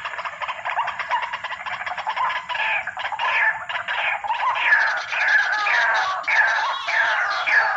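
White-breasted waterhen (ruak-ruak) calling: a rapid run of repeated harsh notes that slide downward in pitch, growing louder after about two and a half seconds.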